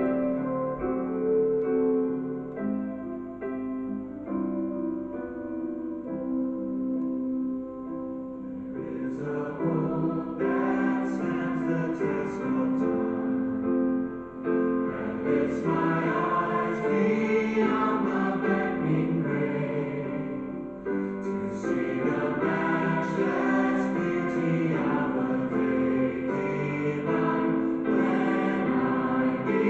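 Choir singing a hymn with keyboard accompaniment. The keyboard plays alone at first, and the voices come in about nine seconds in.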